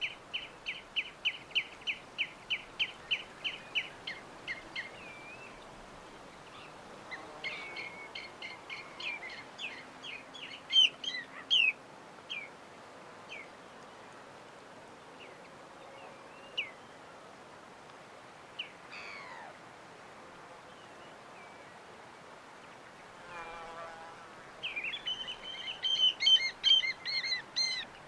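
Birds chirping: a run of quick, evenly repeated high chirps at the start, more bursts and scattered single calls through the middle, and a dense burst of chirping in the last few seconds, over a faint steady hiss.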